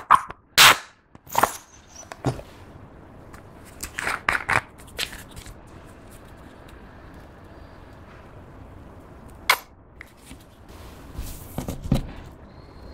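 Clear slime being pressed and kneaded by hand, giving sharp pops and clicks as trapped air bursts, scattered at irregular intervals: a few in the first seconds, a cluster about four to five seconds in, one about nine and a half seconds in, and more near the end.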